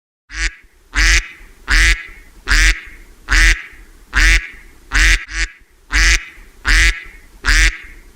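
A duck quacking in a steady series, about one loud quack every three quarters of a second.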